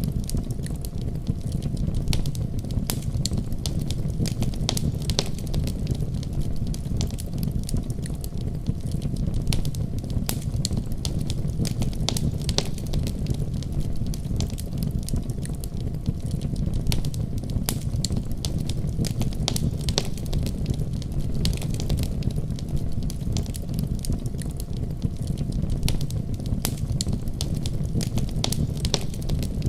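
Wood fire crackling in a fireplace, with frequent sharp irregular pops, over the steady low rumble of a winter storm.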